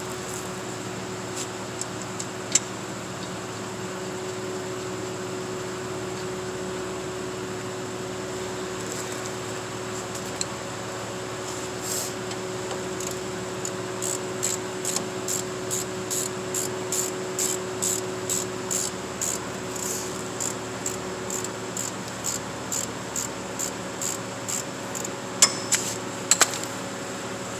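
Ratchet wrench being worked in an even rhythm of about two clicking strokes a second, tightening a brake caliper's bolts, with a few louder sharp metal clicks near the end. A steady hum runs underneath.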